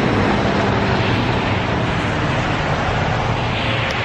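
Steady motor-vehicle sound: a low engine hum under a broad, even rushing noise, as of a car running by a road. The hum is strongest in the first second or so.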